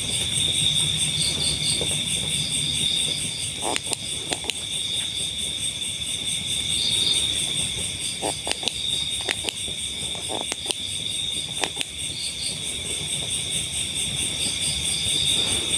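Insect chorus of crickets trilling steadily in two high, pulsing bands, with a few short clicks scattered through the middle.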